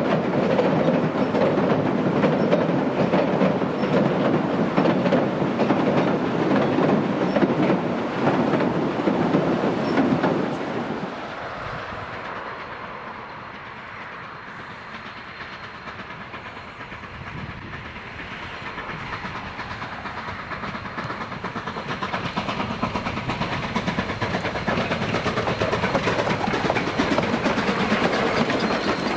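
Durango & Silverton narrow-gauge steam train rolling on the rails, its wheels clacking over the track. Loud at first, it drops off suddenly about ten seconds in, then builds back up over the last ten seconds.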